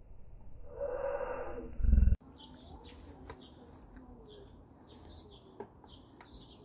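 Birds chirping outdoors, many short high calls repeating, starting after an abrupt cut about two seconds in. Before the cut there is a muffled noise that ends in a brief loud low thump.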